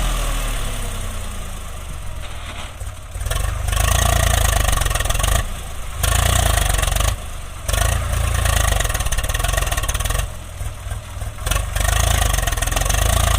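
A heavy diesel engine running hard. Its pitch falls over the first two seconds, and its loudness drops suddenly several times.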